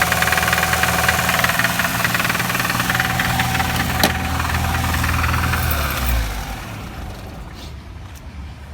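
Lada VAZ-2101 four-cylinder engine idling on choke with a steady knock, which the owner traces to a worn connecting-rod bearing on one cylinder. A single sharp click about four seconds in; the engine is switched off about six seconds in and runs down.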